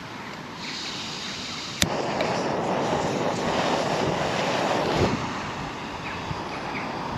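Rain pattering on a tent flysheet, heard from inside the tent. A sharp tap comes just under two seconds in, then the patter turns denser and louder for about three seconds before easing again.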